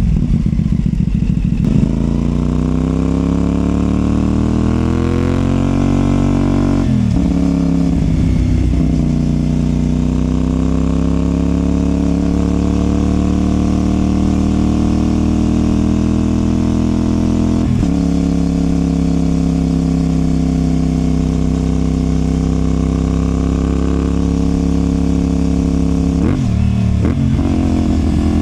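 CFMOTO 450SR's parallel-twin engine through a Yoshimura exhaust, accelerating through the gears: the revs climb, break at a gear change about seven seconds in, climb again and settle into a steady cruise. Another shift comes at about eighteen seconds, and a few quick rev changes come near the end.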